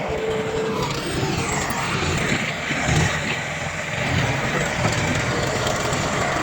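Diesel engines of heavy earthmoving machinery running steadily, with a low rumble and a brief louder swell about three seconds in.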